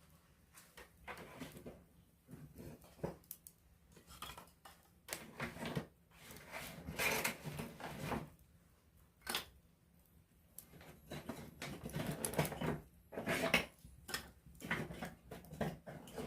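Wood campfire crackling, close up: irregular clusters of sharp snaps and pops with short quieter gaps between them.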